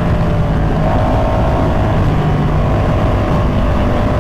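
Ducati Pikes Peak motorcycle's engine running steadily under way, heard from on the bike, with wind rushing over the microphone. The engine note rises slightly about a second in, then holds.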